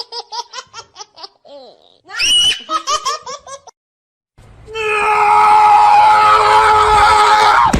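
High-pitched laughter in quick repeated bursts. After a short break comes a long, loud, steady-pitched cry lasting about three seconds.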